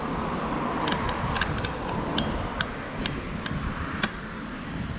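Wind rumbling on the microphone, with irregular sharp clicks, about eight of them spread over the last four seconds.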